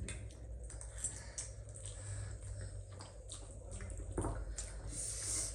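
Close-up wet eating sounds of someone chewing spicy instant noodles: irregular small squishy clicks of the mouth.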